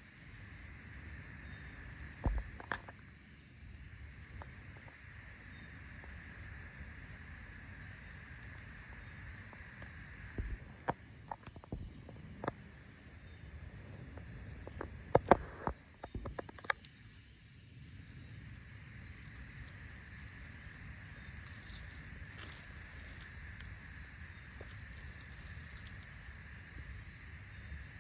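Steady high-pitched insect chorus, like crickets, running throughout, with a few sharp clicks and knocks about two seconds in and again in a cluster in the middle.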